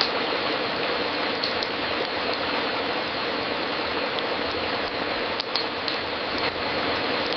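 Wood fire crackling in a fireplace: a steady hiss with scattered sharp pops, a few of them close together about five to six seconds in.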